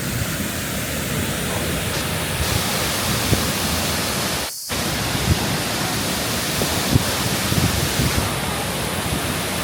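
Steady rushing noise of the Salto de Guaymate waterfall's falling water. It cuts out for a split second about halfway, then resumes unchanged.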